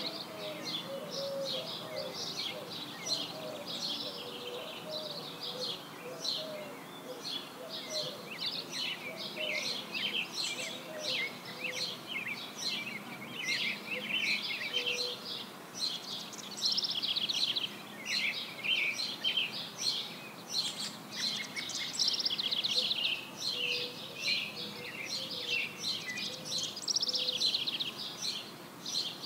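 Songbirds chirping and singing continuously over steady outdoor background noise.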